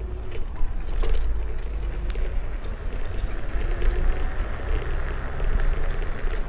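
Riding a Kukirin G2 electric scooter: wind rumbling on the action camera's microphone over steady road noise, with frequent small clicks and rattles.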